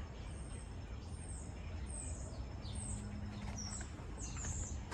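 A songbird calling in a series of short, high chirps that sweep downward, starting about two seconds in and repeating several times, over a steady low rumble.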